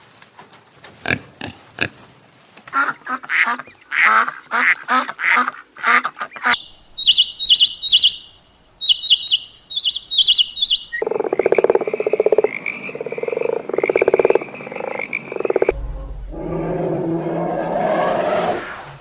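A run of different animal calls, each lasting a few seconds. Short clicks give way to a string of rapid pulsed calls, then high chirps, then longer buzzy calls, and finally a rougher, noisier call near the end.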